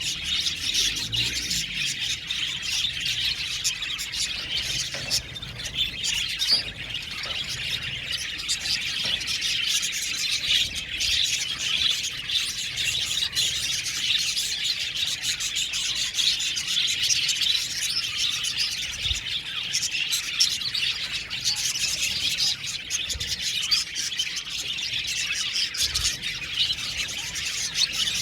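A flock of budgerigars chirping and chattering together, many overlapping short high calls in a dense, continuous chorus.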